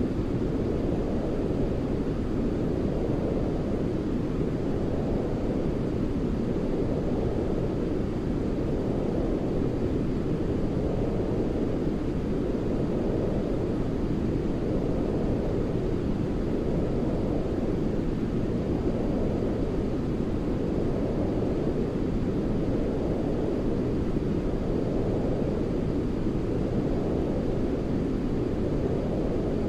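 Baby-sleep white-noise track: steady, deep, muffled noise like brown noise, its upper edge swelling and easing back slowly about every four seconds.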